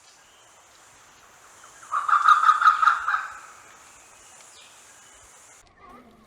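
An animal's rapid, rattling call about two seconds in, lasting about a second, over a faint steady high hiss that cuts off suddenly near the end.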